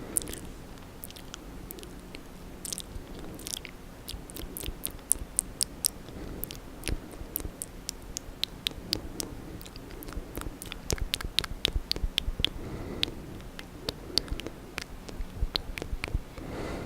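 ASMR ear-licking mouth sounds close to the microphone: a run of wet clicks and smacks of tongue and lips, sparse at first and coming thick and fast from about four seconds in.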